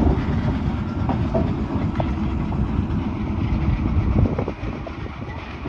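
D class diesel locomotive and its carriages moving on a shunt, a steady low rumble with a few sharp knocks of wheels over rail joints. It grows quieter after about four and a half seconds.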